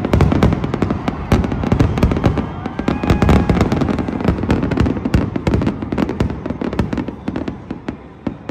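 Aerial fireworks display going off in a rapid barrage of bangs and crackles, many shells bursting close together, thinning out and getting quieter near the end.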